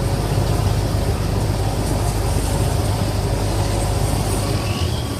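Ferry boat's engine running with a steady low drone under a wash of wind and water noise; the low engine note drops away near the end.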